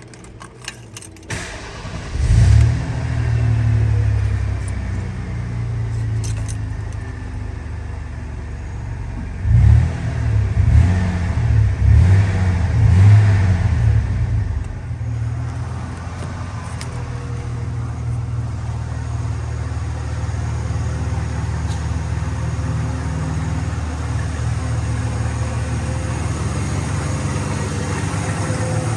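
1991 Ford F-150's 4.9-litre straight-six starting about two seconds in and idling, then revved in several short blips around the middle before settling back to a steady idle.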